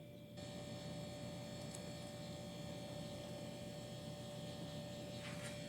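Faint steady electrical-sounding hum with a held tone and hiss, coming up about half a second in.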